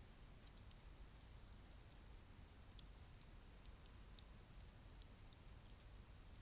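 Wood campfire crackling faintly: scattered, irregular small pops and ticks over a low steady background rumble.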